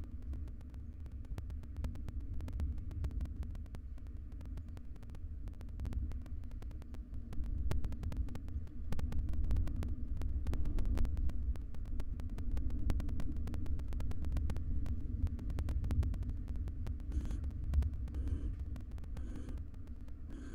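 Steady low hum and rumble with many faint clicks and scratches. In the last few seconds, short breathy hisses repeat about once a second: a barn owl's snoring call.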